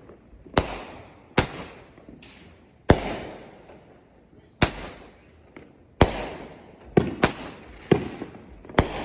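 Consumer fireworks going off: about nine loud bangs at uneven intervals, a couple of them close together near the end, each trailing off in echo.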